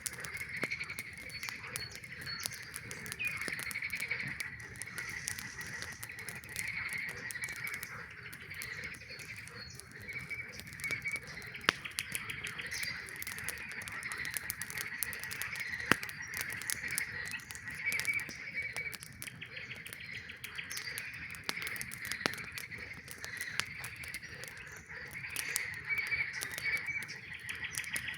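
A dense chorus of many frogs calling without pause, with a few sharp pops from a crackling campfire, two of them standing out near the middle.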